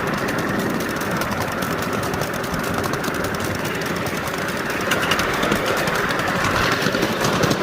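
5-inch gauge live steam locomotive running: a dense, steady rush of steam and mechanical noise with a fast, fine repeating beat.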